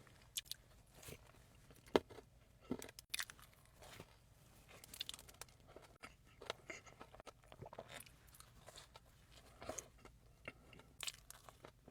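Close-miked eating of a frosted doughnut: soft biting, chewing and mouth smacks with scattered small clicks, the sharpest about two seconds in.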